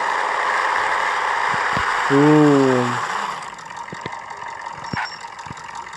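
Steady car cabin noise while driving, which falls away about three and a half seconds in as the car slows. A brief wordless vocal sound comes a little after two seconds, and a few scattered light clicks follow.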